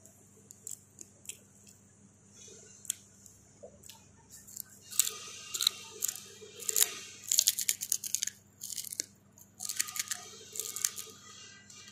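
Close-up chewing and crunching of crispy pig skin: scattered soft mouth clicks at first, then loud crackling crunches in two bouts from about five seconds in. A faint steady hum lies beneath.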